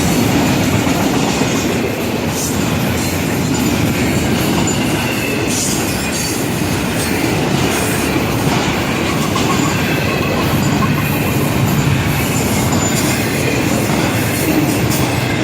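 Florida East Coast Railway freight cars rolling past close by: a steady rumble and clatter of steel wheels on the rails, with a faint high wheel squeal now and then.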